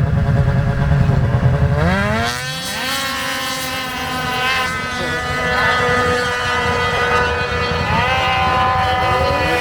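Small off-road engine revving hard: a low rumble, then the pitch climbs steeply about two seconds in and holds high and steady, climbing again near the end.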